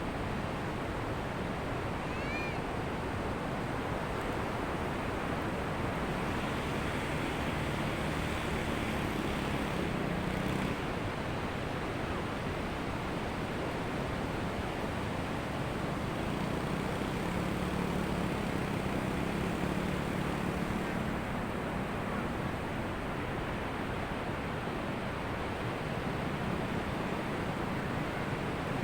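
Ocean surf washing onto a beach, a steady rushing of breaking waves that swells a little now and then. About two seconds in, a brief high wavering call sounds over it.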